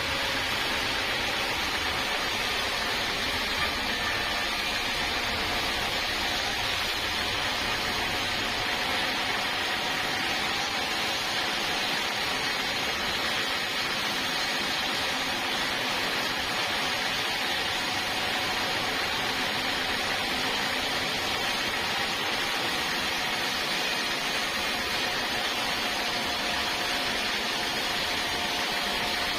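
Sawmill saw running steadily: a constant high hiss with a faint, steady whine underneath and no breaks.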